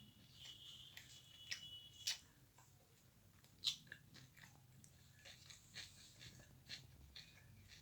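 Faint close-up chewing and mouth sounds of a person eating, with scattered soft clicks and smacks, the sharpest about three and a half seconds in.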